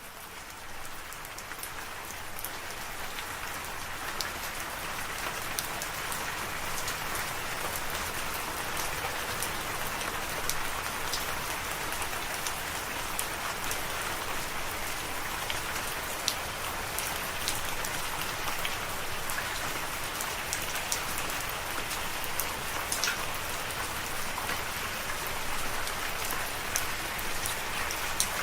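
Steady rain falling on a surface, a dense hiss with many distinct drop ticks close by. It fades in over the first few seconds, then holds level.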